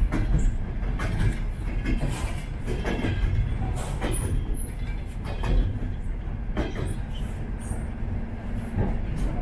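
Passenger train carriage running along the track, heard from inside: a steady low rumble with irregular clicks and knocks from the wheels and carriage.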